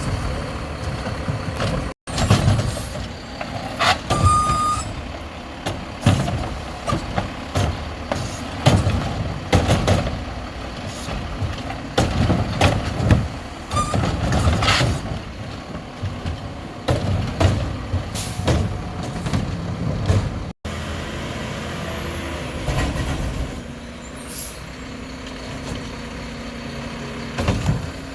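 Mack LEU garbage truck with a McNeilus Meridian body and Curotto-Can arm at work: the diesel engine runs under repeated clanks and bangs as carts are handled and dumped. The sound settles to a steadier engine hum in the last few seconds.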